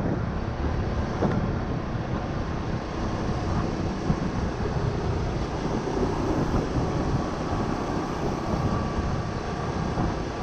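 Steady wind rumble on the microphone over the running of a Honda Winner 150 motorbike's single-cylinder engine while it is ridden along the road.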